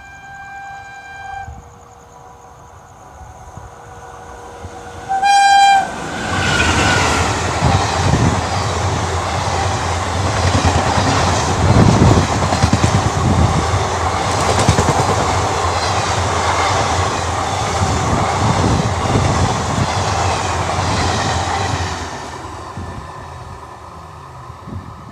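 Passenger train on an Indian Railways main line: a held locomotive horn note ends about a second in, a short loud horn blast comes about five seconds in, then the train passes at speed with a heavy rumble and wheels clattering over the rail joints for about fifteen seconds, fading near the end.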